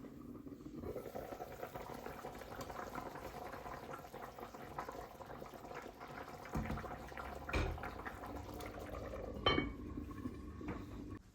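Water running steadily in a kitchen, with a few knocks of dishes or a pot in the second half. The water stops suddenly at the end.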